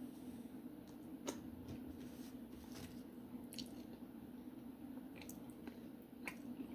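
Faint wet squishes and a few small clicks from a saucy seafood boil being handled, over a low steady hum.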